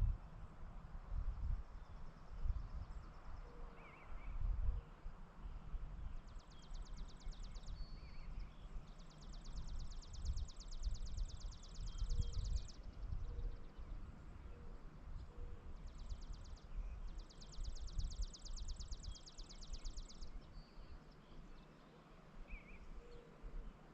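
Rural outdoor ambience: a rapid, dry, high-pitched trill comes in several bouts of one to four seconds, four in all. Under it is a low rumble that rises and falls, and a few faint short chirps.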